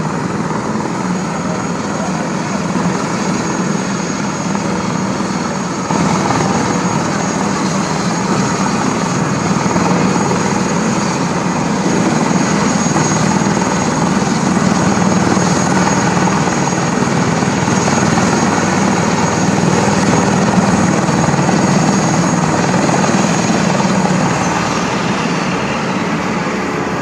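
Helicopter running close by: steady rotor and turbine noise with a thin, constant high whine. It gets louder about six seconds in and the whine fades near the end.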